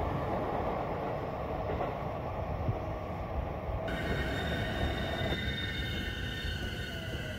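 Commuter trains running through a station: a steady rumble of wheels on the rails. About halfway through, several high steady squealing tones set in and hold.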